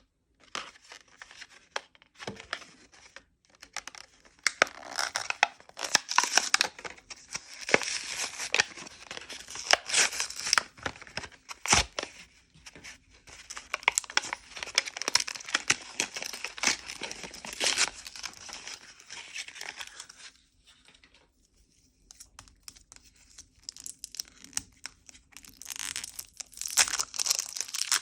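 Crinkling, crackling handling noise from a toy putty pack and its packaging, with sharp clicks, coming in bursts with short pauses.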